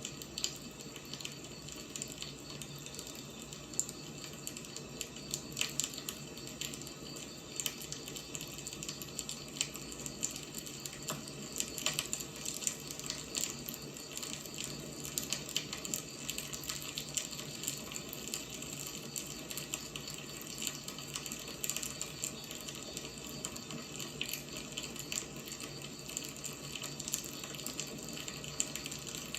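Wood fire burning: a steady hiss with frequent, irregular crackles and pops from the burning logs.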